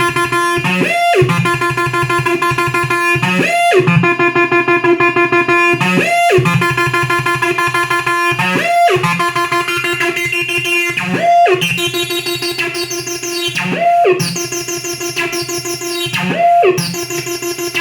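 Behringer TD-3 analog acid bass synthesizer playing a looping sequenced pattern, with a resonant squelchy sweep recurring every two and a half seconds or so. The sound turns brighter about twelve seconds in as the filter opens up.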